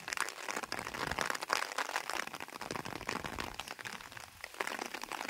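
Rain falling, heard as a dense, irregular crackle of raindrop ticks.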